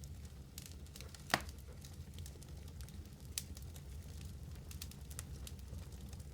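Fire burning in a fireplace: scattered crackles over a low steady rumble, with one sharp pop about a second and a half in and a smaller one about halfway through.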